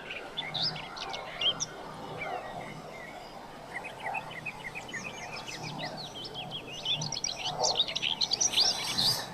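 Wild birds chirping: many short, quick high chirps, sparse at first and crowding into a dense chatter from about the middle on.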